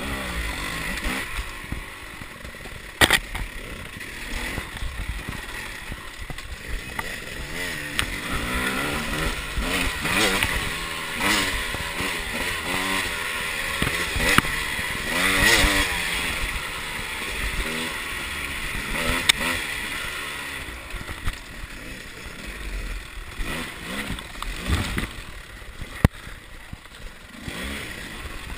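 300 cc two-stroke enduro motorcycle engine riding a trail, revving up and down over and over as the throttle is worked, loudest around the middle. A few sharp knocks cut through, a loud one about three seconds in and another near the end.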